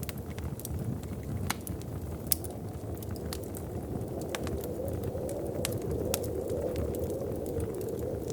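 Wood fire in a fireplace crackling, with irregular sharp pops and snaps, a loud pop about two seconds in, over a steady low rumble.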